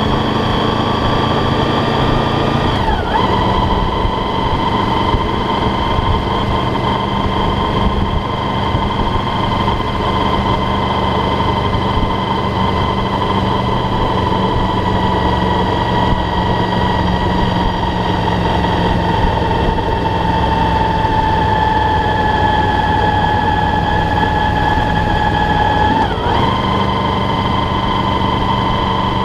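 Motorcycle engine running steadily under way, heard from on board over a steady rush of wind and road noise. Its pitch drops with a brief break about three seconds in and rises again with another break near the end, as at gear changes.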